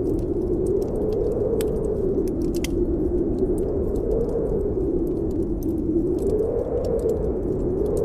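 Snowstorm wind howling, its pitch slowly rising and falling, over a wood fire crackling in a fireplace with scattered small pops.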